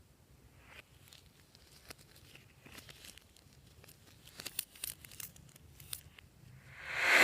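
Fluffy slime being stretched and worked by hand, with scattered small sticky clicks and pops that grow busier about four seconds in. Near the end a louder noise swells and stops on a sharp click.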